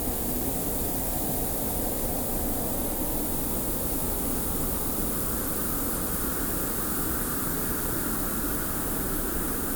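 Steady desert wind with a hiss of blowing sand, a continuous rushing noise; about halfway through, the wind's tone rises a little.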